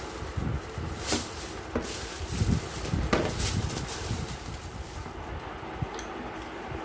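A few light knocks or clicks over a low, rumbling background noise that grows steadier in the second half.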